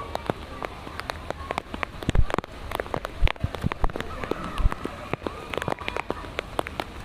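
Rain falling, with many irregular sharp drops pattering on a hard surface close by and a few heavier drips landing with a dull thud.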